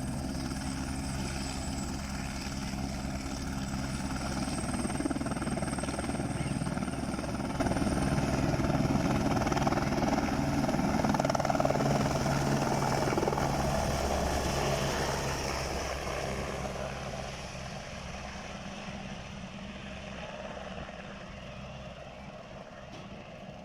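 Helicopter taking off, its rotor and turbine engine running with a thin high whine early on. It grows louder through the middle, then fades steadily toward the end as it moves away.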